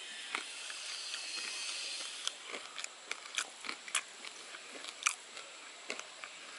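Crispy coconut-coated fried chicken (Payyoli chicken fry) being bitten and chewed close to the microphone: a run of sharp, irregular crunches over a steady high hiss.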